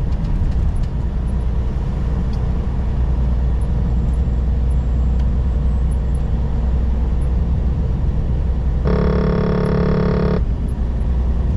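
Semi-truck cab interior while driving on a snow-covered highway: a steady, loud low rumble of engine and road noise. About 9 seconds in, a single steady pitched tone sounds for about a second and a half, then cuts off sharply.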